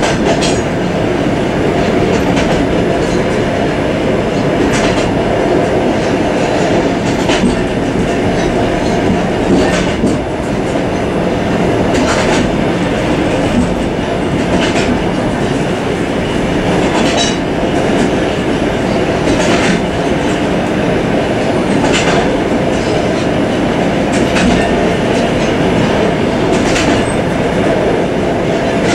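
Suburban train running, heard from inside its vestibule: a steady rumble of wheels on rails, with a clack about every two and a half seconds as the wheels cross the rail joints.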